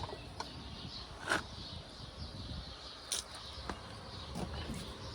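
Quiet outdoor background with a few light clicks and taps, the clearest about a second in and about three seconds in.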